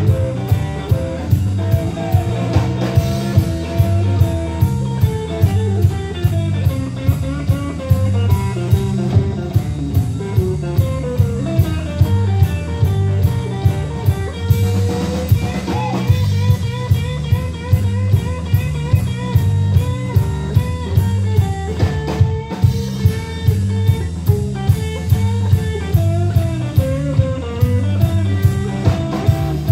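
Live band playing an instrumental blues-rock passage: a guitar lead line with bending notes over bass and a steady drum beat.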